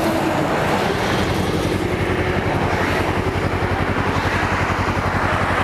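Motorcycle engine running at idle with a fast, even pulse, over steady highway traffic noise.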